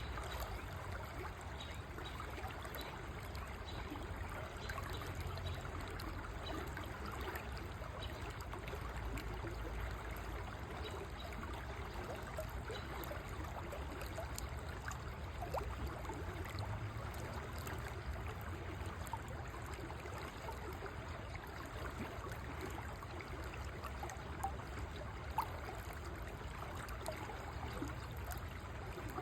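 River water flowing steadily: a constant rush with a low rumble beneath it, and two brief ticks of water a little before the end.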